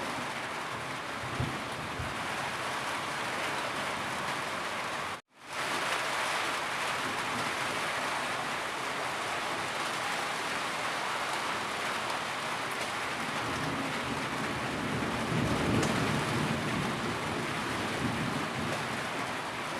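Steady rainfall, an even hiss of drops hitting surfaces. About five seconds in the sound cuts out completely for a moment and fades straight back in, like an edit or loop point in the recording.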